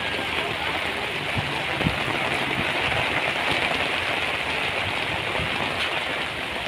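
Steady rain falling, an even hiss with a couple of faint low knocks.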